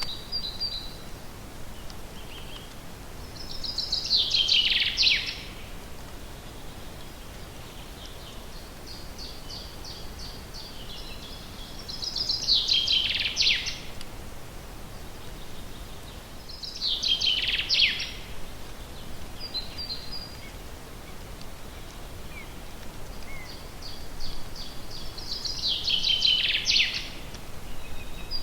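Forest songbirds singing. One bird repeats a loud song phrase four times, each a quick run of notes falling in pitch, with softer repeated chirps from other birds in between, over a faint steady hiss.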